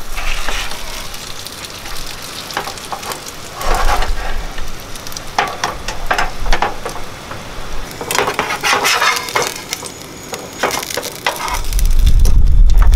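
A crumbed schnitzel sizzling in a frying pan on a gas camp stove, the crackle coming in bursts as it is laid in and the pan is moved. A loud low rumble comes in near the end.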